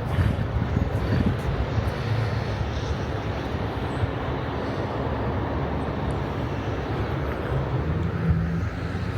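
Steady low engine rumble, a constant hum under a broad wash of outdoor noise.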